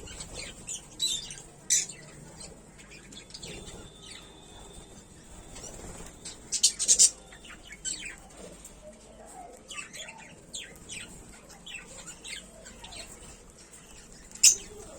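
A small colony of lovebirds chirping and calling: many short, shrill, high-pitched chirps overlapping at irregular intervals, with a few much louder calls about two seconds in, around seven seconds in and near the end.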